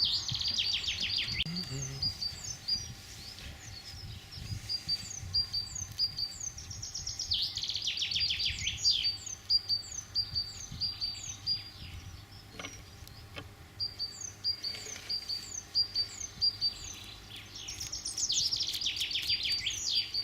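Songbirds singing: a steady run of short, high chirps, with a rapid descending trilled phrase that comes three times, about every ten seconds. Two faint clicks sound about halfway through.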